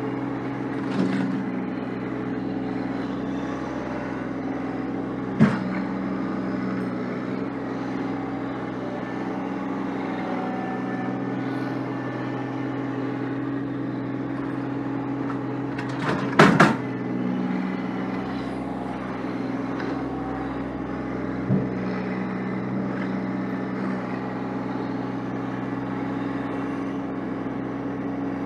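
A vehicle engine running steadily at a constant speed. Short clanks cut through it about 5 seconds in, twice in quick succession around 16 seconds in (the loudest), and once more near 21 seconds.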